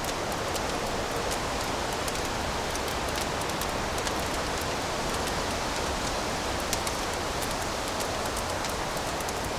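Fire crackling in a fireplace: a steady hiss with scattered sharp pops and snaps, one louder pop about seven seconds in.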